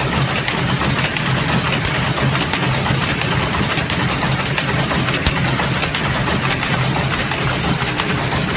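Semi-automatic book sewing machine running steadily: a continuous mechanical hum with fast, irregular clicking from its needle and thread-hooking mechanism as it stitches signatures.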